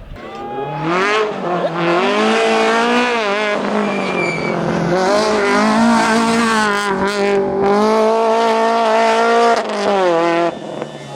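Rally car engine revving hard under full throttle as the car passes on an asphalt stage. The pitch climbs, dips briefly at a gear change about three seconds in, holds high, then drops away near the end as the driver lifts.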